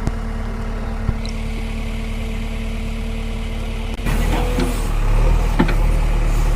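Tractor engine running steadily. About four seconds in, the sound changes abruptly to louder engine running with a few sharp knocks.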